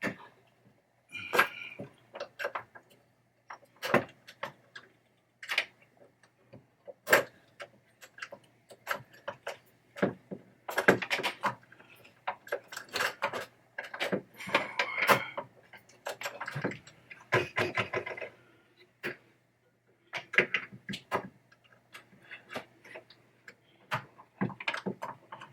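Metal parts of a pinball machine's trap door mechanism being handled and fitted together by hand: irregular clicks, clinks and short rattles, with a faint steady hum underneath.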